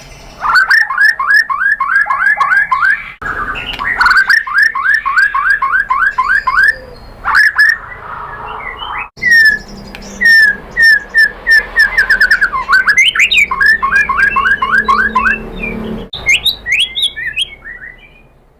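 White-rumped shama singing: fast runs of repeated sweeping whistled notes, about eight to ten a second, mixed with higher chips and trills, fading out near the end.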